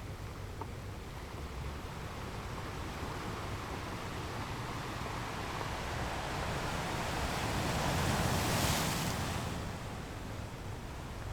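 Sea waves washing on the shore in a steady surf. One wave swells and breaks loudest about eight seconds in, then falls back.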